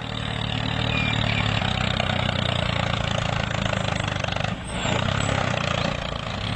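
Mini DIY model tractor running with a steady engine-like noise, dipping briefly about four and a half seconds in.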